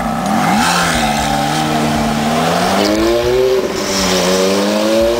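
Ferrari sports car accelerating away under hard throttle, its engine note climbing in pitch, dropping once at a gear change near the end and then climbing again.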